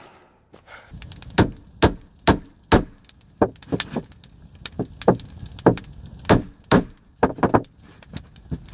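Repeated sharp knocks of something striking wood, about two a second, with a few coming in quick clusters, typical of hammering or chopping during shelter building.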